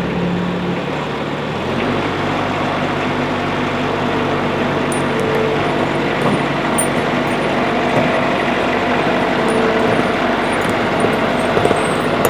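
Heavy rain pouring down in a thunderstorm, a loud steady hiss that comes in abruptly as a door is opened.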